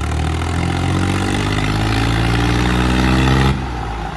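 Tractor diesel engine running hard under load in a tug-of-war pull, its pitch climbing slowly, then breaking off suddenly about three and a half seconds in.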